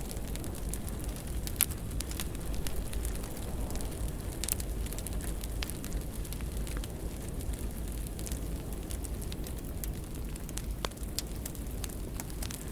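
Wood fire crackling in a fireplace: frequent small sharp pops and snaps over a steady low rumble, with one louder pop about a second and a half in.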